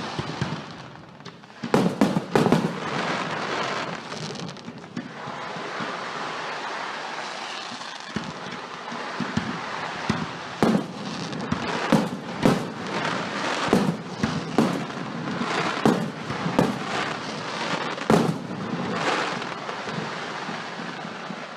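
Fireworks display: aerial shells bursting in sharp bangs over a continuous crackle, a few bangs close together about two seconds in, then a rapid run of about a dozen in the second half.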